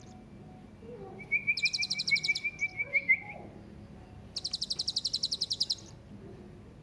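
Serindit (hanging parrot) calling: a fast run of short chirps with a rapid, high, buzzy trill over it, then a second high trill of about a dozen notes a second.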